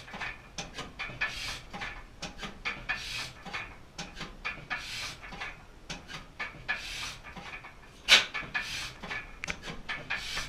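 1889 Crossley gas engine running slowly on magneto ignition and a snifter valve carburettor: a steady patter of mechanical clicks, a breathy puff every couple of seconds, and one much louder sharp beat about eight seconds in.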